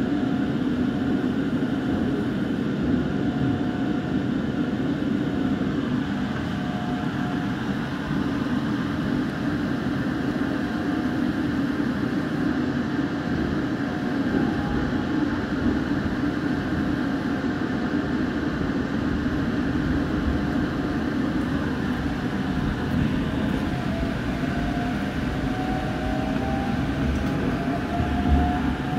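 JR Central 313 series electric train running, heard from inside the front cab: a steady rumble of wheels on rail, with faint thin tones drifting upward near the end and a single knock about a second before the end as it rolls over points.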